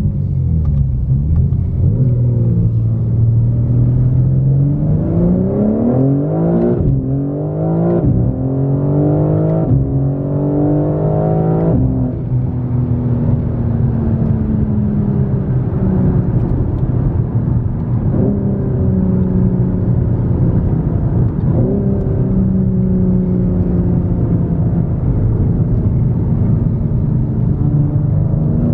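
BMW M4 Competition's S58 twin-turbo inline-six with aftermarket SSR downpipes, accelerating with the engine note climbing through quick gear shifts, then falling in long slides as the car slows, with a short rise in pitch twice in the latter half at the downshifts.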